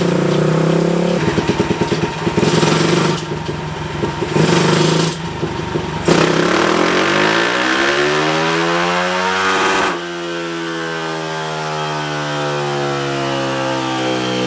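Stroked 225cc Daytona 190 single-cylinder pit bike engine running on a dyno: a few quick throttle blips, then a full-throttle pull with the revs climbing steadily for about four seconds to the top. About ten seconds in the throttle is chopped and the revs wind down.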